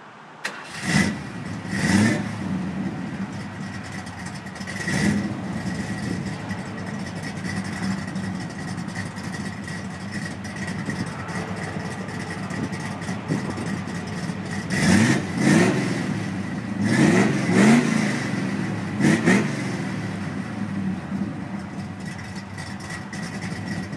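Older car or pickup engine idling and revved in short blips, each rev sweeping up in pitch and quickly falling back: a few single blips in the first seconds, then a run of five quick revs past the middle.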